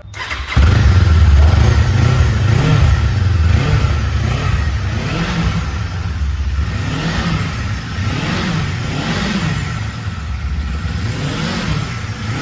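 Kawasaki Eliminator motorcycle engine and exhaust, blipped repeatedly so the pitch rises and falls in short revs about every second or so. It begins loudly about half a second in.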